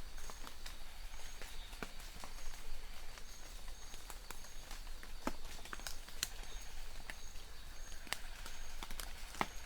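Rain with scattered individual drops striking close by. A short, high call repeats about once a second.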